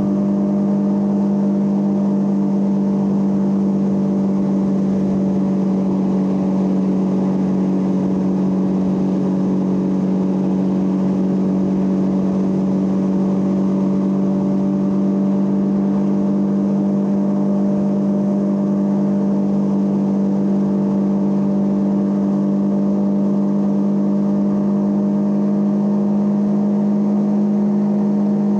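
Triumph Trident 660's inline three-cylinder engine running at steady revs, its note holding one pitch.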